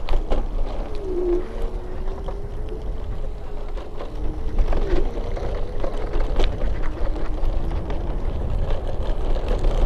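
Wind buffeting the microphone in a steady low rumble, with a faint wavering drone that rises and dips in pitch.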